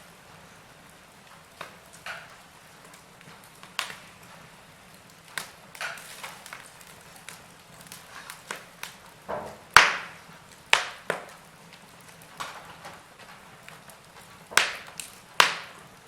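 Log fire crackling: irregular sharp pops and snaps over a faint hiss. The loudest pops come about ten seconds in and again near the end.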